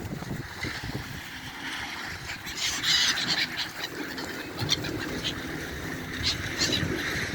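Seagulls calling: a cluster of cries about two and a half seconds in, then a few shorter calls later, over steady background noise.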